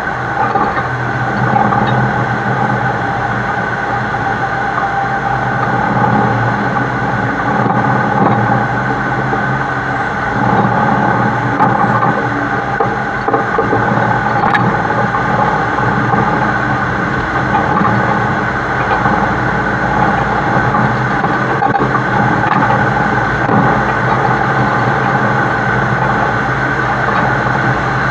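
Heavy truck hauling a super load, its engine and tyres running steadily on the highway, heard close up from a camera mounted on the truck's side.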